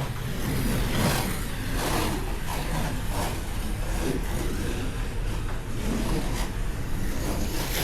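Slot cars racing laps on the track: a steady mechanical whir of their small electric motors and wheels, with repeated short clicks and swells as cars pass.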